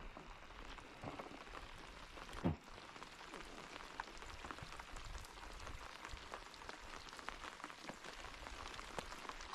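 Steady light rain pattering, many fine drops ticking. One louder thump about two and a half seconds in.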